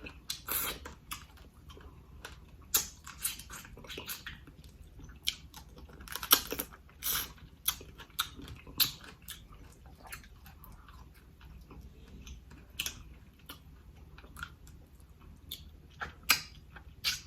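Close-miked eating of a spicy seafood boil: wet chewing and lip smacking broken by sharp clicks, coming in irregular bursts with quieter gaps between.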